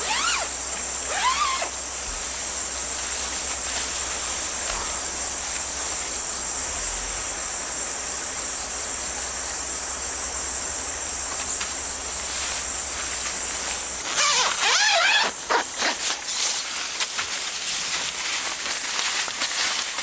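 Stream water rushing under a steady high chirring of autumn crickets. About fourteen seconds in, the insect chorus falls away and a dog barks several times.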